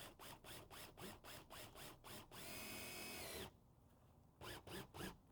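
Cordless drill driving a screw into a wooden board. There is a quick run of short rasping strokes about five a second, then the drill runs steadily for about a second, and more rasping strokes come near the end.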